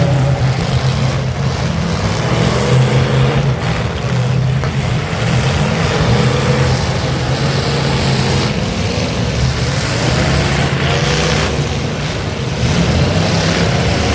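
Demolition derby cars' engines running and revving loudly, several at once, their pitches rising and falling over one another.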